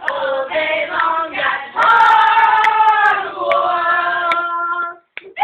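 Several young girls' voices singing together, with a long held note in the middle, breaking off abruptly near the end.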